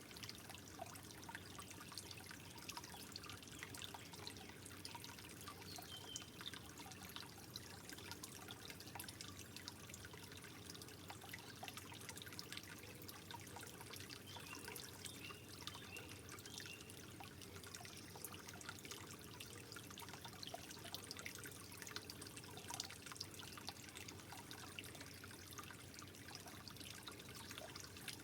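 Soft, steadily trickling water, with many small drips and splashes running through it.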